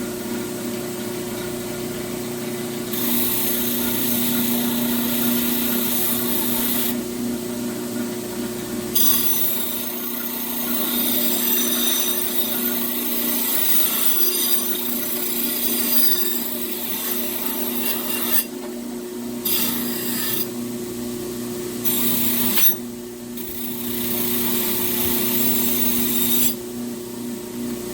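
Power grinder running steadily, grinding the leaf-spring steel of the axe head in several spells of a few seconds each that start and stop sharply.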